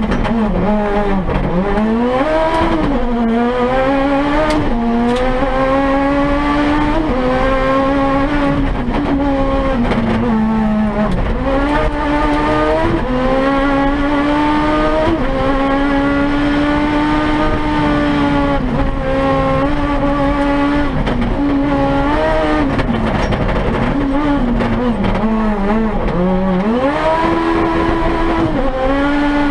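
Turbocharged 998 cc three-cylinder engine of a Toyota Yaris rally car, heard from inside the cabin, run hard at high revs on a sprint stage. Its pitch drops sharply several times as the throttle is lifted for corners, then climbs again as the car accelerates.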